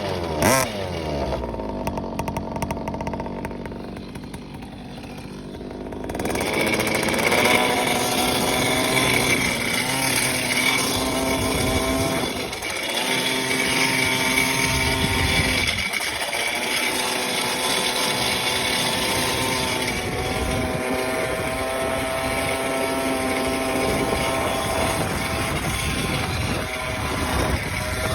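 Vehicle engine running after a cold start. It falls back from a few quick revs at the start and drops to a quieter, lower run. About six seconds in it picks up to a higher, steady fast idle, and dips briefly twice.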